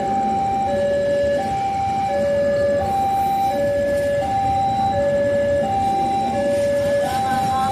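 Electronic two-tone warning alarm alternating evenly between a low and a higher tone, each held about two-thirds of a second, over steady background noise; typical of an Indonesian railway level-crossing alarm.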